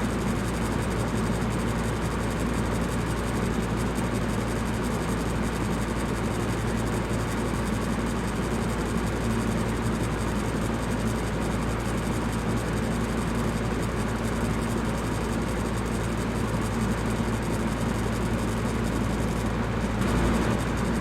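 Electric fan running steadily: a low hum under an even rush of air, without change.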